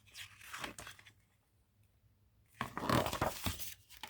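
Paper rustling as a picture-book page is handled and turned, in two spells: a short one at the start and a louder one about two and a half seconds in.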